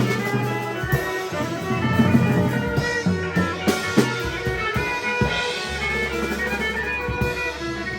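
Rock band playing an instrumental passage live: drums hitting over sustained guitar chords and held bass notes, the bass moving to a new note about two thirds of the way through.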